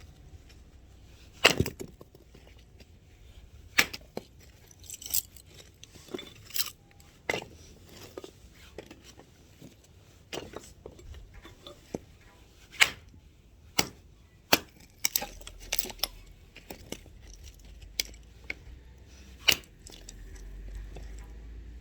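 Axe splitting firewood: a string of sharp woody cracks, one every second or two at an uneven pace, with smaller knocks in between.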